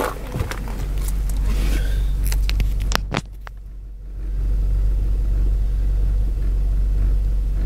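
Nissan X-Trail's QR25 2.5-litre four-cylinder engine idling steadily, heard from inside the cabin. A few sharp clicks and knocks come in the first three seconds, and the sound drops quieter for about a second just after three seconds in.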